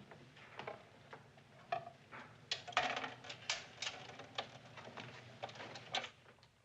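A run of irregular light clicks, taps and clinks of small hard objects being handled, over a low steady room hum.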